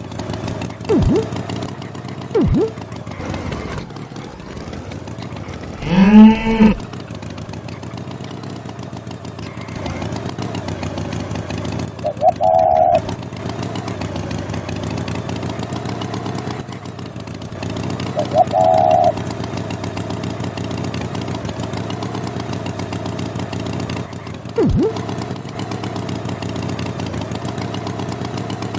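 Cartoon farm sound effects: a cow moos loudly once, about six seconds in, over a steady engine hum. Two short higher tones sound later.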